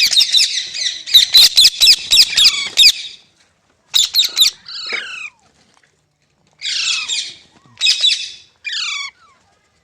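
Green parrot squawking: a fast run of harsh screeches for about three seconds, then several shorter bursts of squawks with gaps between them.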